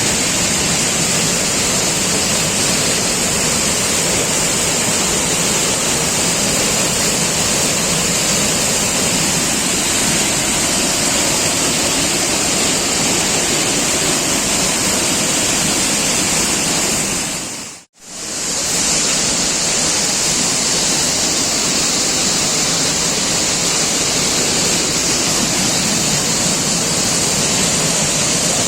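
Waterfall: a loud, steady rush of falling water. It cuts out for an instant about eighteen seconds in, then carries on unchanged.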